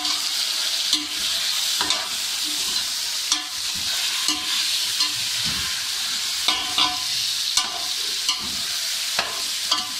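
Raw chicken pieces sizzling in hot ghee in a large metal pot, with a steady frying hiss. A long metal spoon stirs them, scraping and knocking against the pot about once a second.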